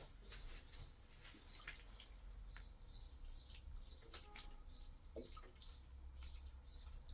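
Faint water dripping, with short, high drops falling every half second or so over a low steady rumble.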